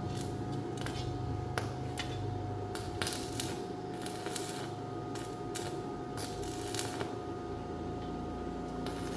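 Irregular light clicks and taps, as of hand tools and small metal parts being handled in a motorcycle workshop, over a steady faint hum.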